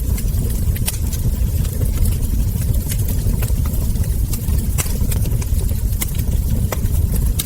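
Wood fire crackling, with irregular sharp pops and snaps of burning logs over a steady low rumble.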